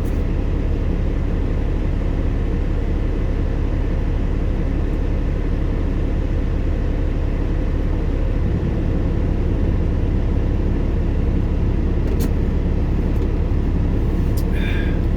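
Steady low rumble of an idling semi truck.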